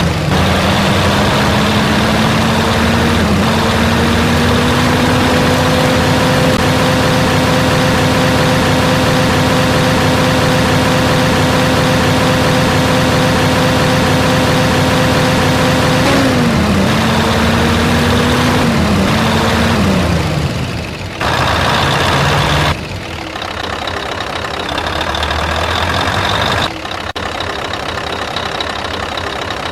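Truck engine running, its pitch climbing over the first few seconds and then holding steady. Just past halfway the pitch falls in steps, and about two-thirds in the sound changes abruptly and carries on quieter.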